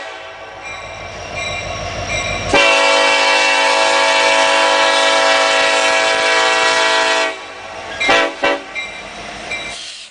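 Union Pacific SD70ACe locomotive's Nathan five-chime air horn sounding over a low diesel rumble. About two and a half seconds in it swells into a long loud blast of nearly five seconds, then gives a few short blasts near the end.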